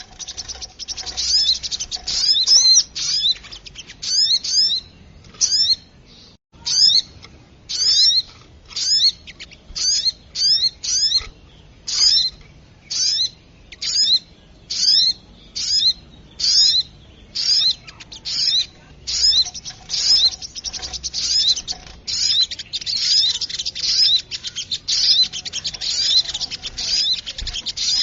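Sogok ontong (little spiderhunter) calling: sharp, high chirps, each a quick downward sweep, repeated about once or twice a second and coming faster near the end, as a bird-lure call.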